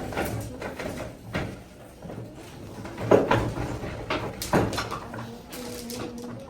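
A handful of sharp knocks and clatters at irregular intervals, about four or five over several seconds, with a faint steady low hum near the end.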